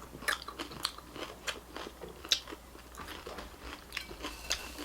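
Close-up crunching and chewing of a mouthful of chiura (dry beaten rice), with sharp, irregular crunches several times a second.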